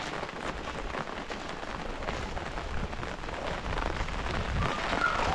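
Steady rain falling: a dense hiss of many small drop impacts.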